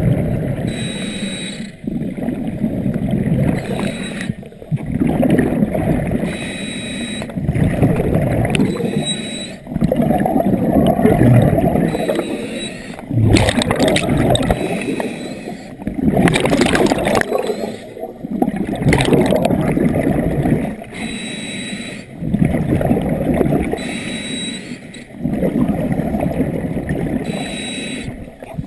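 A scuba diver breathing through a regulator underwater: a regular cycle every two to three seconds of hissing inhalations and gurgling bursts of exhaled bubbles.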